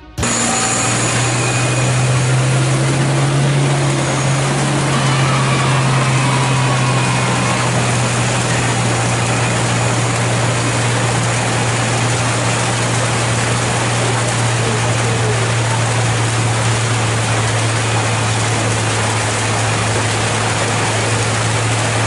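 Steady rushing hiss of heavy rain and floodwater, with a truck engine idling underneath in a constant low hum.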